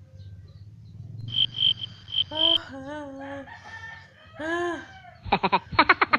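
Rooster crowing: two arched calls in the middle, after a short string of high pips. A fast run of sharp, crackly calls comes near the end.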